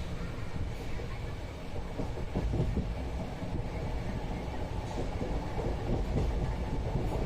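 Interior of a moving passenger train: a steady rumble of the carriage running on the rails, with scattered knocks and rattles from the wheels and the coach.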